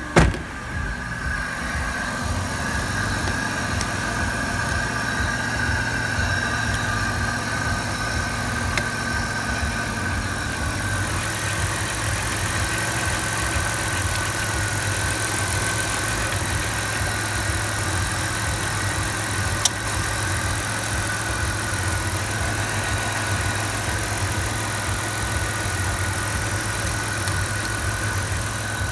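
Chrysler Voyager's 3.3-litre EGA V6 engine running at a steady idle after a sharp loud burst right at the start, with a constant high-pitched whine over the engine note and one short click near the end.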